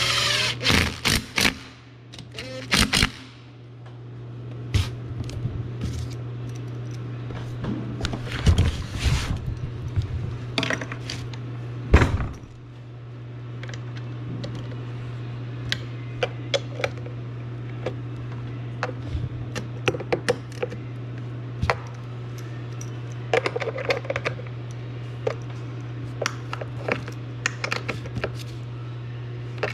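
Metal tools and parts clinking, clunking and scraping at irregular intervals, over a steady low hum. A short power-tool burst sounds at the very start.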